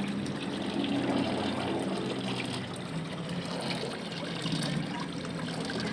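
Water from an artificial rock-relief waterfall trickling and splashing steadily into a pond.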